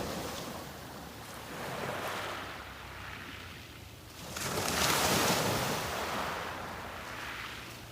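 Sea waves breaking and washing up a beach, a gentle swell about two seconds in and a louder wave crashing about halfway through, then washing back.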